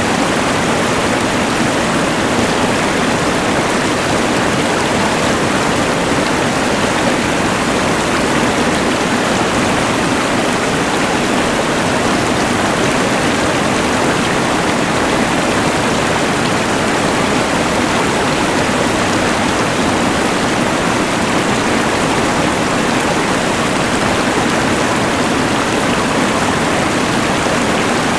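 Rushing mountain river water mixed with the hiss of a LectroFan white noise machine, a steady, unbroken wash of noise with no change.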